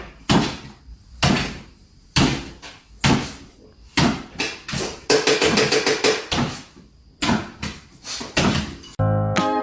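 A series of sharp knocks or bangs, roughly one a second, like a door or cupboard being knocked or slammed repeatedly, with music starting near the end.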